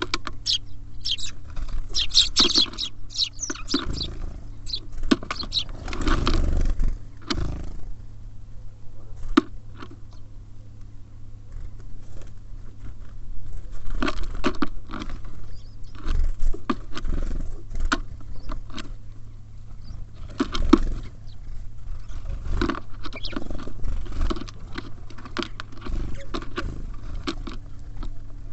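Small birds feeding at a feeder close to the microphone: irregular pecking, tapping and scratching on the feeder and seed, a busy patter of small clicks that comes and goes.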